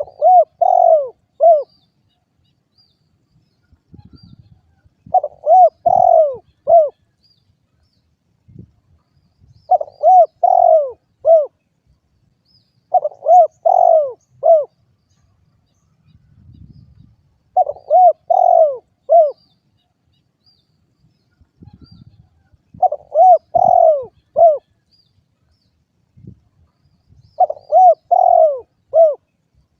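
Derkuku dove cooing: short phrases of four or five rounded coo notes, repeated about every four seconds, seven phrases in all.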